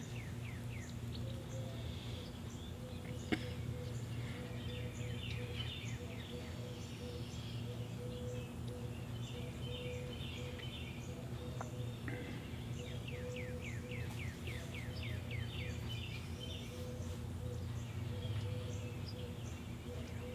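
Songbirds singing in repeated runs of quick falling chirps, over a steady low mechanical hum. One sharp click about three seconds in.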